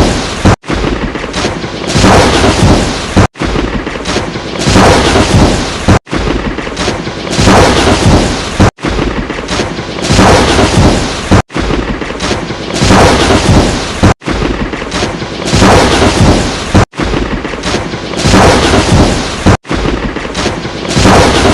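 Lightning-strike sound effect: a sudden sharp crack followed by rumbling thunder, the same clip looped about every three seconds with a brief silent gap before each repeat.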